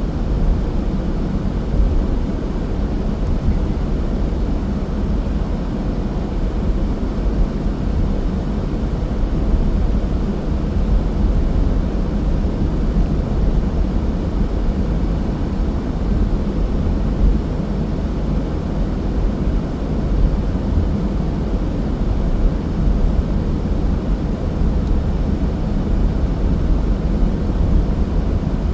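Car driving at steady speed: a continuous low road rumble of tyres and engine.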